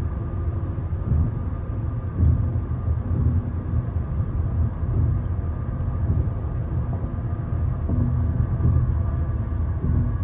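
Steady low rumble of road and engine noise heard inside a Honda Civic's cabin while it is being driven.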